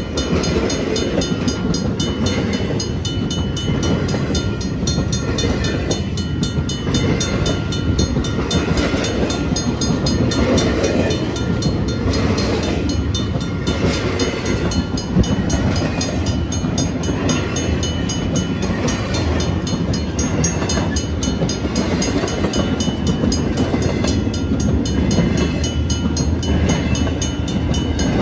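Empty intermodal well cars of a BNSF freight train rolling past close by: a steady, loud rumble of wheels on rail. Over it rings a faint, evenly repeating bell from the grade-crossing signals.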